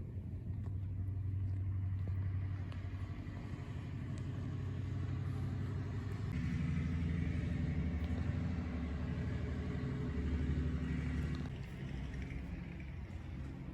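Diesel locomotive engine running with a low, steady drone. It grows louder and changes pitch about halfway through, then eases back near the end.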